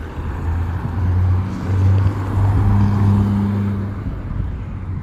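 Wind gusting over the microphone: a loud, low rumble that swells about two seconds in and eases off near the end.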